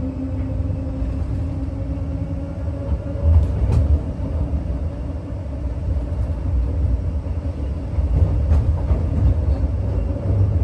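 Electric passenger train in motion, heard from on board: a heavy low rumble of the running gear with a steady motor hum that rises slightly in pitch, and a few sharp clicks from the wheels.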